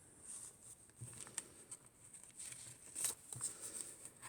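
Faint rustling and light taps of paper and card as the pages of a handmade junk journal are turned and handled, in a few short bursts.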